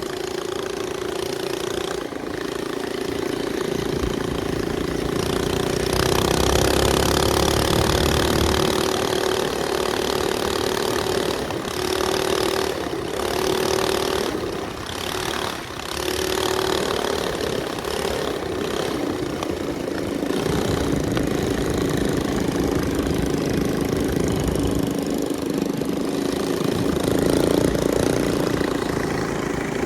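Minibike's small single-cylinder engine running under way, its pitch rising and falling as the throttle opens and eases off.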